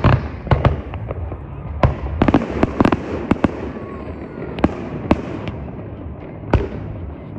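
Fireworks going off: a run of sharp bangs with a dense cluster of cracks about two to three seconds in, then single bangs spaced out towards the end, over a low steady hum.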